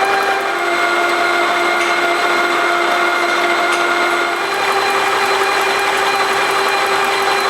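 Twin alpha Stirling engine running at speed: a steady mechanical whir with a constant whine, the pitch dipping slightly about half a second in and rising back a little past the middle.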